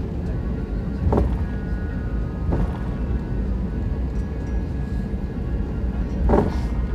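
Steady low rumble of an airliner cabin after landing, with soft music playing over it. Three short sounds break in, about one, two and a half and six seconds in.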